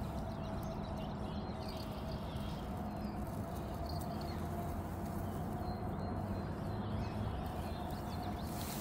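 Birds chirping here and there over a steady low hum.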